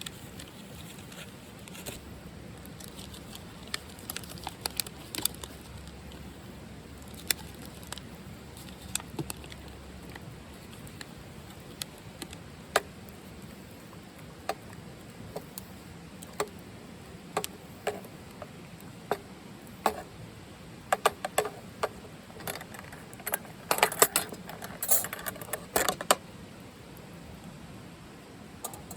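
Light metallic clinks and clatter of camp cookware and utensils being handled, with scattered single clicks and a busier run of clattering near the end.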